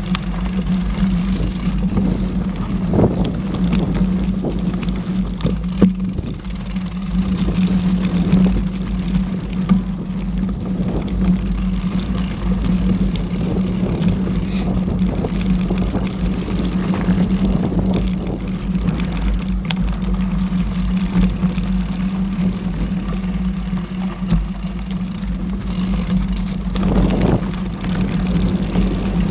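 Mountain bike riding on a dirt trail, recorded on the bike or rider: a continuous rumble of wind on the mic and tyres on the ground, with knocks and rattles from the bike over bumps. A thin high squeal comes in for a few seconds past the middle.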